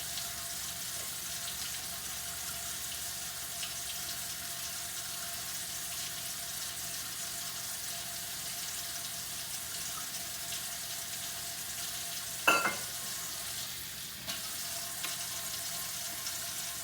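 Water running steadily into a kitchen sink while dishes are washed, an even hiss. A single clink of dishware sounds about twelve seconds in.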